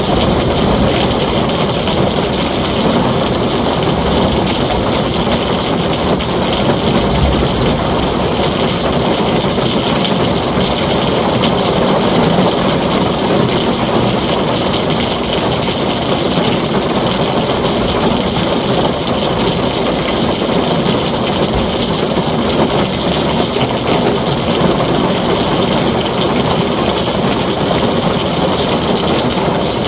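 Heavy rain falling steadily on a tin roof, an even, unbroken downpour.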